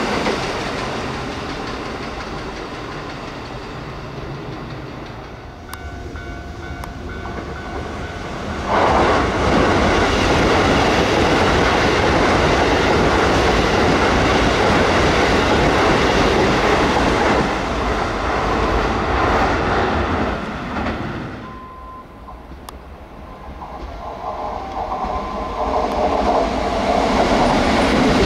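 Keisei 3700-series rapid train passing at about 74 km/h: a loud, even rush of wheels and running gear on the rails that comes up sharply and holds for about twelve seconds. Before it, an earlier passing train fades away, and near the end the next train approaches, growing steadily louder.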